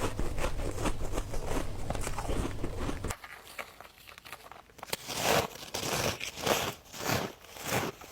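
Ice being bitten and chewed: a dense run of quick crackling crunches, then after a sudden change and a short quieter stretch, slower, louder crunches about every half second.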